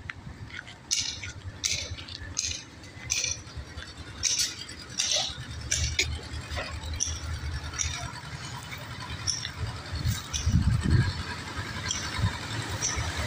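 A run of light, sharp clinks and rattles, about one every three-quarters of a second for the first six seconds, then fainter and further apart, over a low steady rumble.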